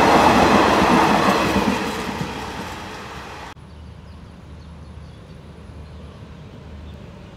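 Passenger train coaches rolling past on the track: a loud rumble and clatter of wheels that fades over the first three seconds as the train moves away. About halfway through, the sound cuts suddenly to a quiet, steady hum of road traffic.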